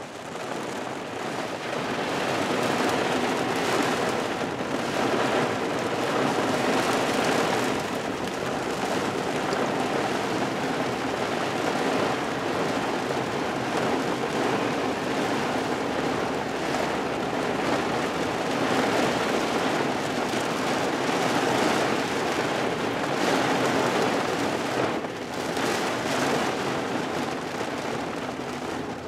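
Heavy rain falling steadily in an even, continuous patter.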